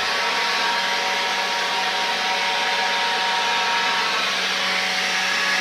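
Leaf blower running steadily at constant speed, a loud even rush of air with a steady hum and whine, blowing dust, leaves and dirt out of sidewalk potholes before they are filled.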